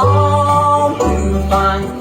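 Live bluegrass band playing, with banjo and guitar under long, held lead-melody notes and a bass note that changes about once a second.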